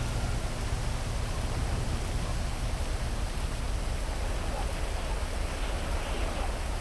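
Heavy rain falling steadily, an even hiss over a low, constant rumble.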